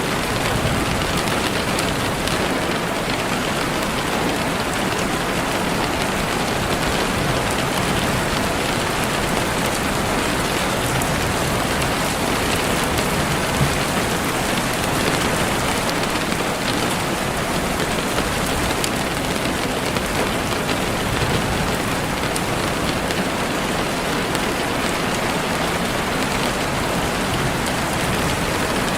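Heavy rain falling steadily on leaves and the forest floor, a dense even patter of drops.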